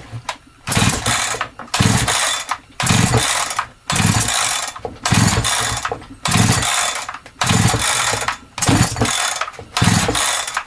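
Holzfforma G372XP two-stroke chainsaw being pull-started about nine times in a row, roughly one pull a second, the recoil starter cranking the engine without it firing. The saw won't catch, not even enough to push the decompression valve out.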